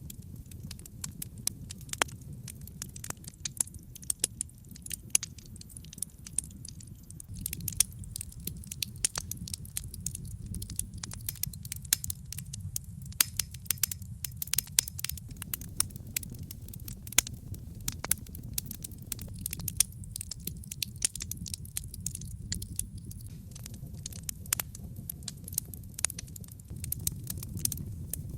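Wood logs burning in a fireplace: frequent, irregular sharp crackles and pops over a steady low rumble.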